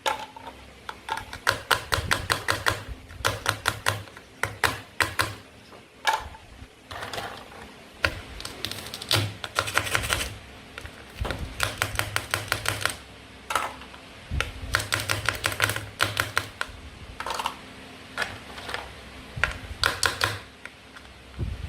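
Rapid runs of light clicks and taps, several per second, coming in short bursts with brief pauses between, from plastic toy play food and packaging being handled.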